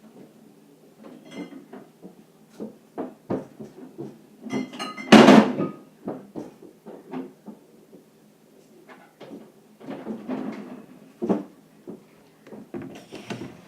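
Things being taken out of a refrigerator and set down: a string of irregular knocks, clunks and rattles, with one loud clatter about five seconds in.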